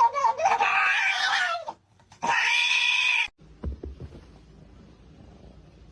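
An animal's high-pitched cries: a long wavering one, then, after a short pause, a shorter steady one, followed by a few faint knocks.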